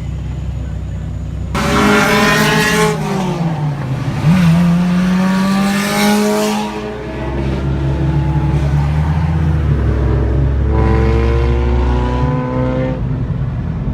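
A car engine revving hard. It idles, then about a second and a half in it climbs steeply and falls back. It climbs again and holds high for a few seconds, and near the end it rises once more.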